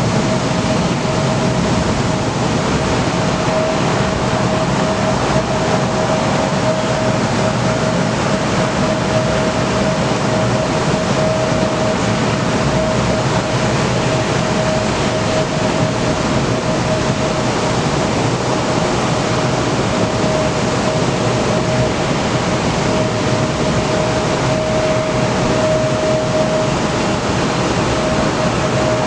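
Steady rushing noise of strong wind and idling aircraft engines, with one steady humming tone held throughout.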